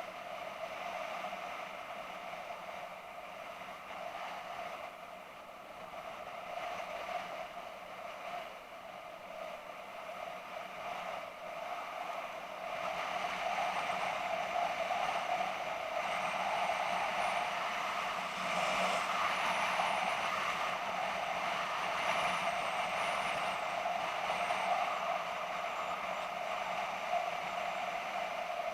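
BMW F650GS motorcycle engine running steadily under way, getting louder about halfway through.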